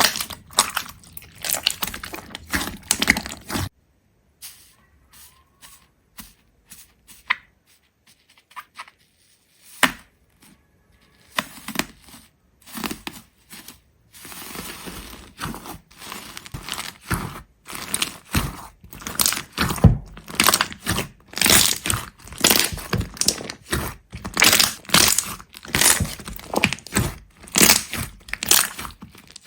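Sharp crunching and cracking sounds in quick, irregular succession, with a near-silent pause a few seconds in and denser, louder crunches in the second half.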